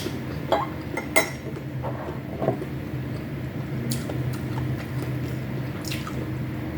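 Spoon and fork clinking against a plate at a meal, about five sharp clinks spread over a few seconds, over a steady low hum.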